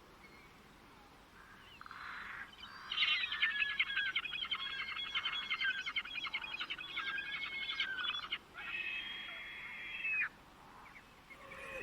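Birdsong: after a quiet start, a bird sings a fast, busy run of chirps and trills for about five seconds. It follows with a shorter phrase of a few held whistled notes, then falls silent near the end.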